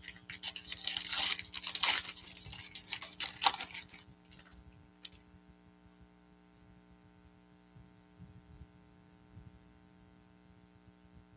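Trading-card pack wrapper crinkling and tearing as it is ripped open, dense crackling for about four seconds. After that, only a faint steady electrical hum and a few light handling ticks.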